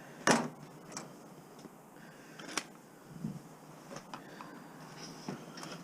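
A few scattered sharp clicks and light knocks, with a duller knock about halfway through, as hands work at the casing of a small discarded device to get at its battery.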